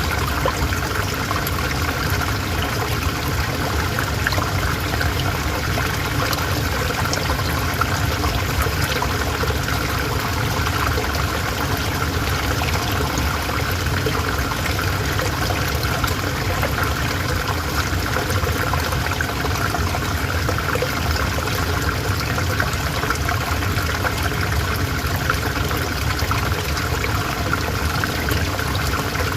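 River water flowing and trickling over stones: a steady, even rush of water.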